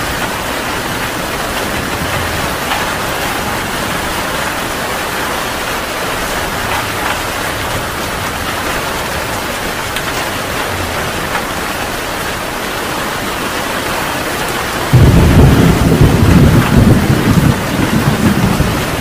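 Heavy rain falling steadily, then a loud rumble of thunder breaks in suddenly about fifteen seconds in and rolls on in surges.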